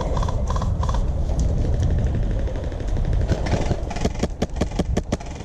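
Wolverine MTW high-pressure-air airsoft rifle firing a rapid string of sharp shots, about five a second, in the second half. A low rumble on the microphone runs underneath.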